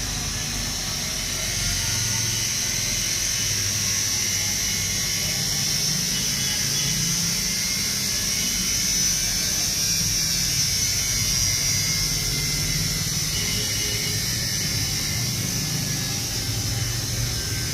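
IFB front-load washing machine's motor running with a steady hum and a high hiss.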